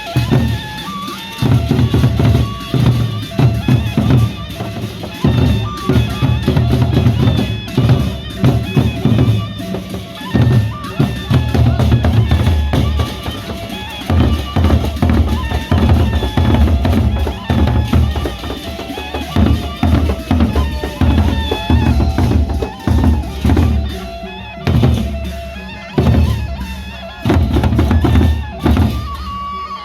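Loud drum-led band music: a steady, dense pattern of bass drum and drum strokes, with a high melody line over them.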